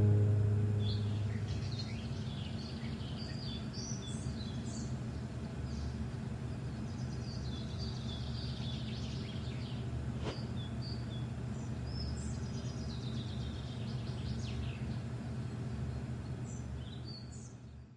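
Birds chirping in short scattered calls over a steady low rumble of outdoor ambience, after music fades out in the first second or so.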